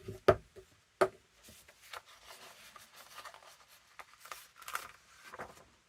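Three sharp taps on a tabletop in the first second, then paper rustling and being rubbed down by hand as pieces are pressed onto a journal page.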